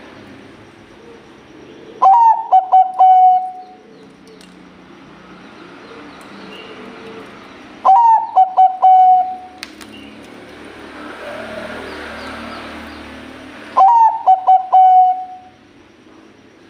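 Zebra dove (perkutut, Bangkok strain) cooing: three phrases about six seconds apart. Each phrase is a quick run of short notes that ends in a longer held note.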